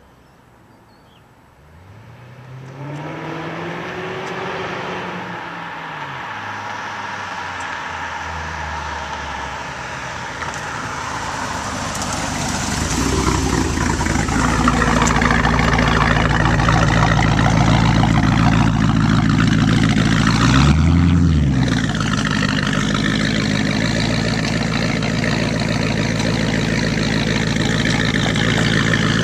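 Supercharged 2007 Ford Mustang GT's 4.6-litre V8 with headers, hot-rod cams and an SLP axle-back exhaust. It starts about two seconds in, flares up and settles into a steady run, grows louder from about halfway, and gives one brief rev near the end.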